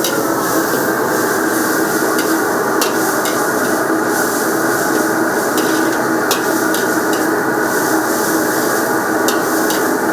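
Steady kitchen cooking noise, a constant rushing roar with a low hum, broken by light, sharp clinks of utensils about once a second.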